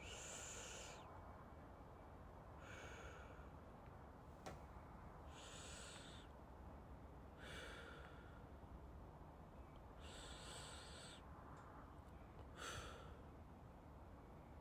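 Soft, slow breathing close to the microphone, one breath every two to three seconds, with a faint click about four and a half seconds in.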